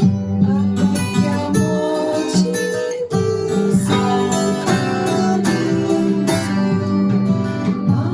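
Acoustic guitar strummed through a chord progression, chords changing every second or so, with a brief gap about three seconds in.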